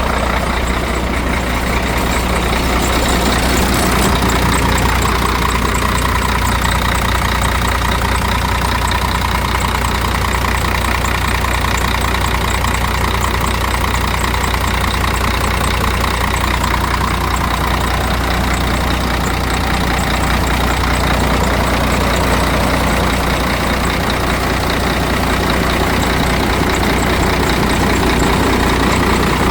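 Scania P114's DC11 11-litre inline-six diesel (380 hp) idling steadily.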